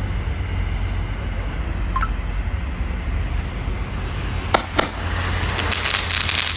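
Crackling sky-shot fireworks going off: two sharp cracks close together about four and a half seconds in, then a dense crackling fizz of many small pops, over a steady low rumble.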